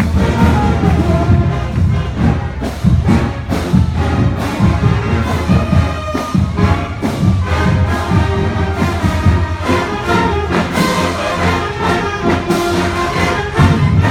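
Marching band playing: brass instruments carrying a tune over steady drum beats.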